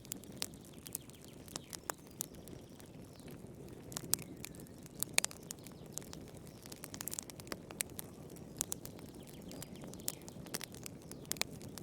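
Wood fire burning in a fireplace: irregular sharp crackles and pops, a few of them louder, over a steady low rumble of the flames.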